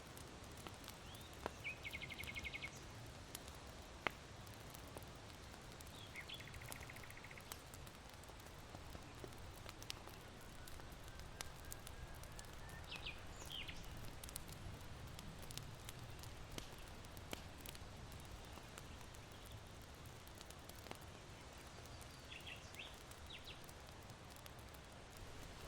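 Charcoal embers in an irori hearth crackling with scattered faint pops, over a soft low rush of wind. A small bird gives a short rapid trill twice in the first several seconds, then a few high chirps later on.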